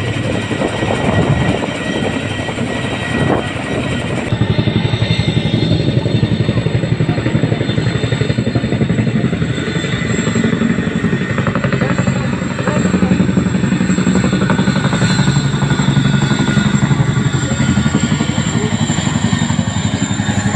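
Helicopter flying low overhead, its rotor beating in a fast, steady chop over the engine noise, with an edit about four seconds in.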